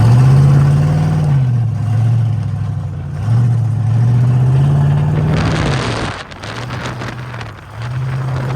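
Car engine revving up and falling back several times, with a rushing hiss surging in twice, about five and eight seconds in.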